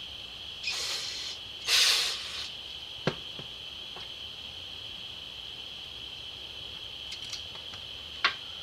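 Two short hissing bursts about one and two seconds in, the second the louder, over a steady high-pitched whine, with sharp clicks of small carburetor parts about three and eight seconds in.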